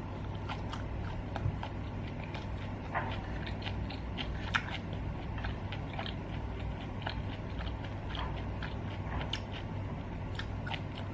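A person chewing a mouthful of meat with the mouth closed, close to the microphone: a steady run of small, irregular mouth clicks, over a low steady hum.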